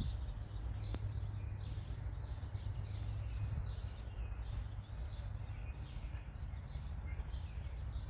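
Birds chirping in short repeated calls over a steady low rumble, with a single sharp click about a second in.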